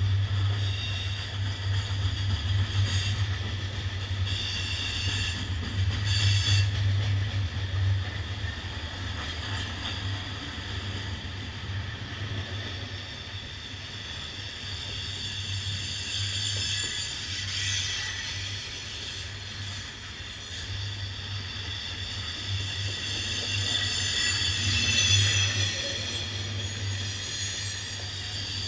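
Norfolk Southern freight train's open-top coal cars rolling past with a steady low rumble, and high-pitched wheel squeals that come and go several times, loudest about 25 seconds in.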